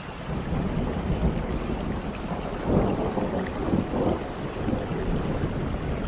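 Thunder rumbling low under steady rain, building at the start and swelling strongest around the middle.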